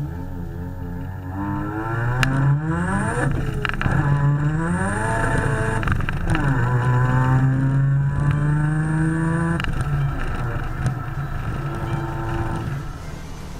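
Mazda FD RX-7's street-ported 13B twin-rotor engine, converted to a single turbo, accelerating hard. It revs up twice with its pitch climbing, drops between pulls, then holds a steady pitch for a few seconds before easing off near the end.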